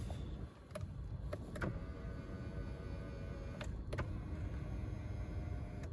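Power tilt-and-telescoping steering column of a 2010 Lexus RX 450h, its electric motor whining steadily for a few seconds as the wheel moves, with several sharp clicks of the control switch.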